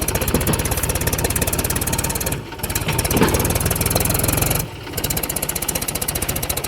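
Mahindra 275 DI tractor's three-cylinder diesel engine running, a fast, even diesel knock of firing strokes. The sound drops away briefly twice, near the middle and about two-thirds through.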